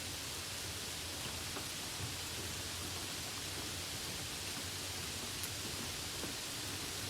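Steady rain falling, an even hiss with a few distinct drops ticking now and then.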